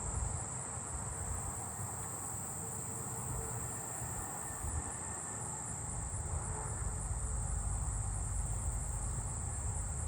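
Agile meadow katydid singing close by: a steady, high-pitched insect buzz, with a low rumble underneath.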